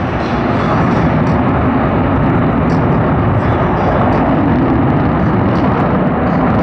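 Loud, steady jet roar of Blue Angels F/A-18 Hornets in flight, swelling slightly in the first second and then holding.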